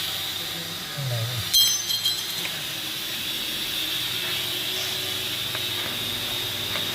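A single sharp clink of hard metal or glass about one and a half seconds in, ringing briefly, over a steady hiss.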